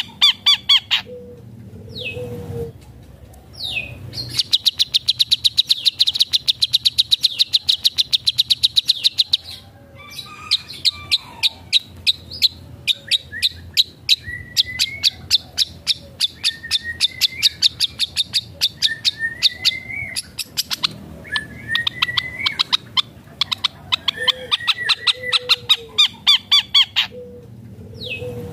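Long-tailed shrike (cendet) singing a varied mimicry song. It runs through long, fast trains of sharp repeated chips, short rising whistles, and low gliding notes, with brief pauses between phrases.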